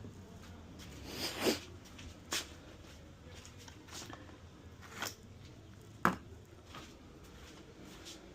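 A handful of sharp, separate knocks and clicks, the loudest about six seconds in, over a low steady hum.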